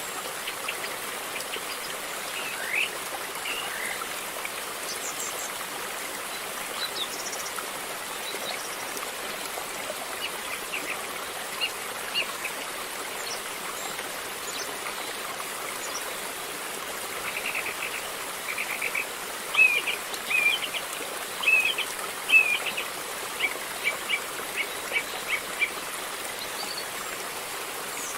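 River water flowing with a steady rushing hiss. Short high chirps sound over it now and then, coming thick and fast for several seconds in the second half.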